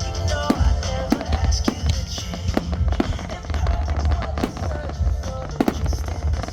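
Aerial fireworks going off in quick succession, with sharp bangs and crackling over a continuous low rumble, while music plays.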